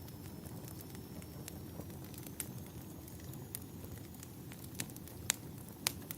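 Wood fire crackling: a steady low rumble of burning with scattered sharp pops and snaps. The loudest pops come in the second half.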